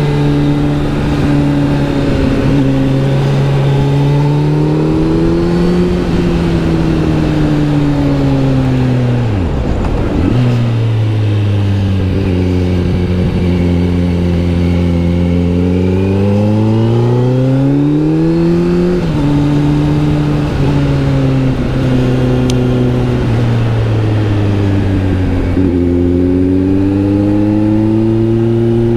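Kawasaki Z900 SE's inline-four engine through an SC Project S1 exhaust while riding. The engine note rises and falls with the throttle and gear changes, dropping sharply about ten seconds in, then climbing again and dropping at an upshift, before rising once more near the end.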